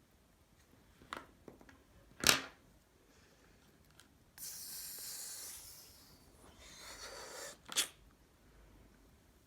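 Hand-tool work on a homemade lid: a few light clicks, then a loud sharp clack about two seconds in, followed by a stretch of steady hissing noise lasting about a second and a half, a second softer stretch of noise, and another sharp clack near the end.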